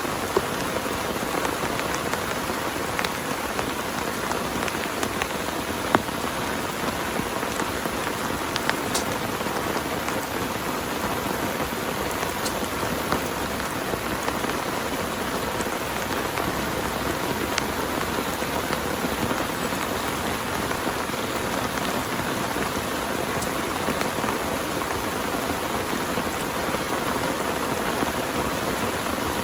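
Rain falling steadily, with scattered sharper hits from single drops striking a surface.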